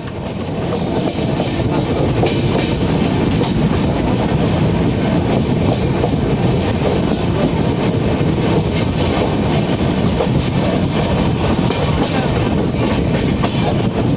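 Passenger train coach running along the track, heard from its open doorway: a steady rumble with the clatter of wheels over the rails. It fades up over about the first second, then holds.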